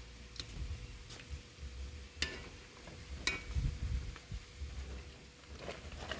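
A handful of light, scattered clicks and clinks of utensils against a plate, over a low rumble.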